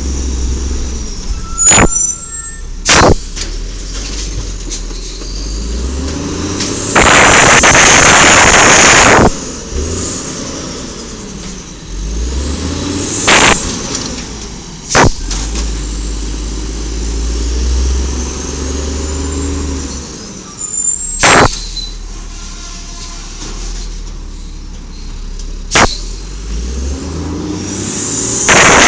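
Automated side-loader garbage truck working: the engine revs up and down, with loud hissing air releases, one about two seconds long and another near the end, and several sharp bangs.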